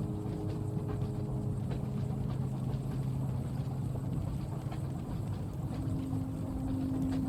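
Steady low rumble of a train carriage in motion, with a droning hum that shifts to a different pitch a couple of times, and faint scattered ticks over it, from light rain on the window.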